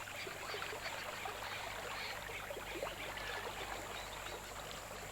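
Faint, steady river ambience of gently trickling, flowing water, with many small ticks and droplet sounds.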